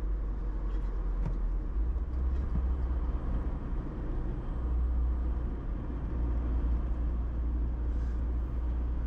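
Steady low drone of a car driving along a road, engine and tyre noise heard from inside the car.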